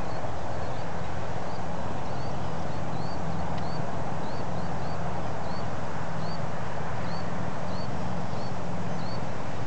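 A bird repeating short, high chirps, about one and a half a second, over a steady low rumbling noise.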